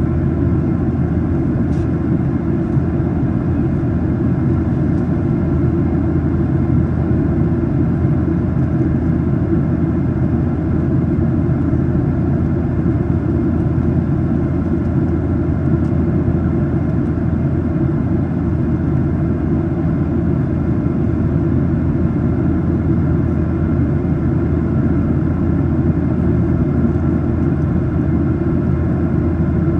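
Boeing 737-800 cabin noise during the climb: the steady low rumble of the engines and airflow heard from a main-cabin seat, with faint steady tones above it.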